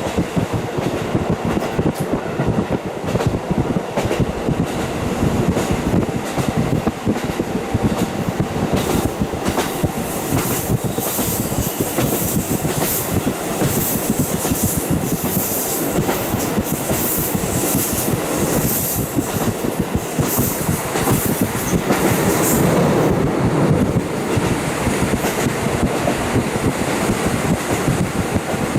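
Ride noise of a KiHa 40 diesel railcar running with its windows wide open: steady wheel and running noise with wind rushing in, and the wheels clacking over rail joints. A high hiss comes in through the middle and the running noise grows louder for a few seconds after it.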